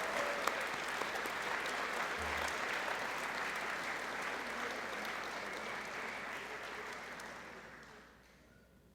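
Audience applauding in a gym, steady at first and then dying away near the end.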